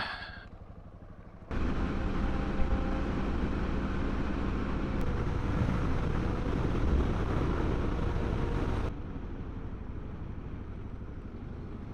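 Motorcycle engine running under way, with wind and road noise. The sound jumps abruptly louder and noisier about one and a half seconds in, then drops back just as abruptly about nine seconds in.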